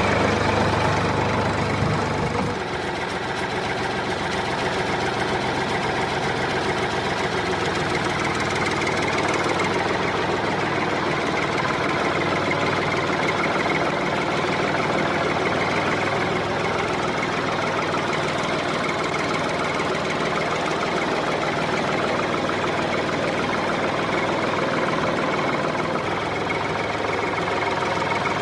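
A small motor running steadily, with a continuous mechanical drone. The deepest part of the hum eases off about two seconds in, and the rest runs on unchanged.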